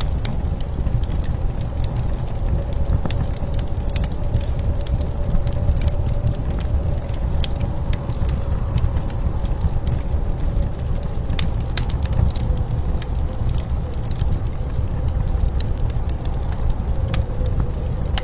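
Wood fire crackling with scattered sharp pops, over a steady low rumble of blizzard wind with a faint howling tone.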